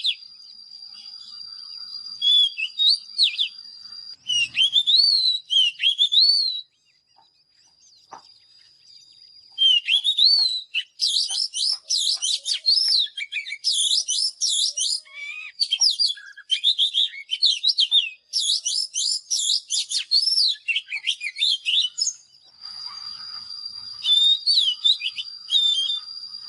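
Oriental magpie-robin singing: varied whistled phrases, with a pause of a few seconds, then a long dense run of rapid, jumbled notes that ends about four seconds before the close. A faint steady high tone lies underneath at times.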